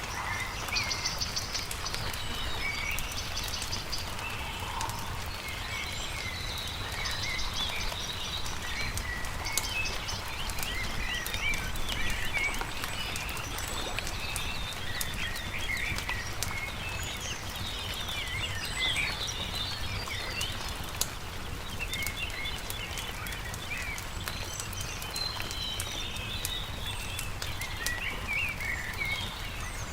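Several songbirds chirping and trilling, over the scattered pops and crackles of a wood campfire and a steady low rumble.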